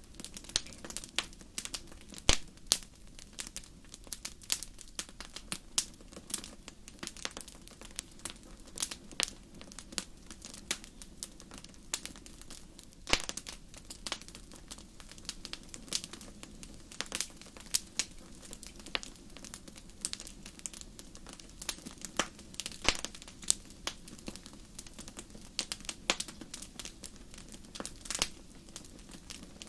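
Wood fire in a fireplace crackling: irregular sharp snaps and pops, often several a second, with a few louder pops, the loudest about two seconds in. Under them runs a low steady rumble.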